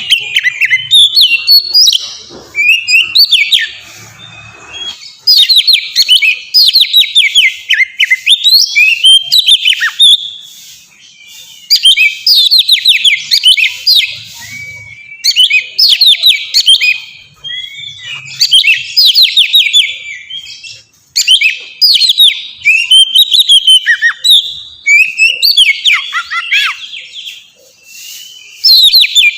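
Oriental magpie-robin (kacer) singing loudly and without let-up: phrase after phrase of rapid whistled trills and sweeping notes, separated by short pauses.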